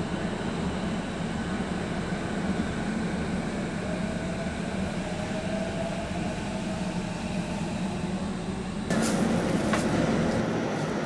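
Steady low hum and rumble of an electric train standing at a station platform, with a faint tone slowly rising in the middle. About nine seconds in the sound changes abruptly to a louder, hissier railway-side noise with a few clicks.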